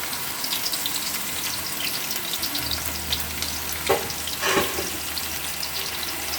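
Onion frying in hot oil in a kadai, sizzling and crackling steadily. Two louder scrapes about four seconds in, from stirring.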